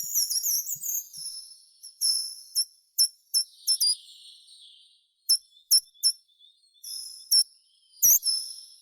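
A songbird singing a varied song of sharp high chirps and quick sweeping whistles, delivered in short phrases with brief pauses between them.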